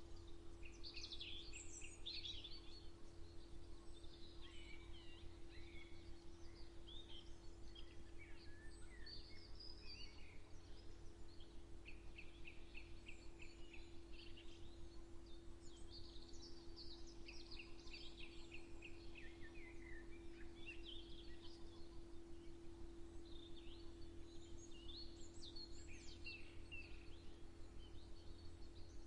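Several songbirds singing and chirping, with short runs of quickly repeated notes now and then, over a steady low hum and rumble.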